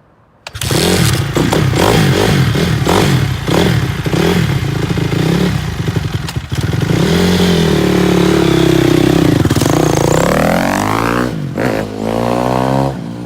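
Dirt bike engine running loud, starting suddenly and revving unevenly. Near the end it is revved up twice, rising in pitch and dropping back each time.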